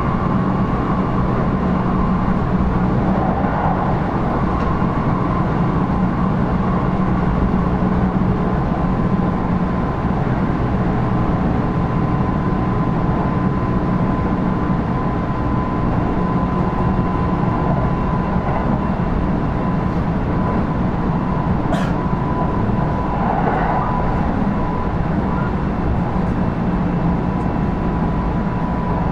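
Kintetsu 5200 series electric train running along the line, heard from inside the car: a steady rumble of wheels on rail with a thin, steady high tone over it. A single sharp click sounds about 22 seconds in.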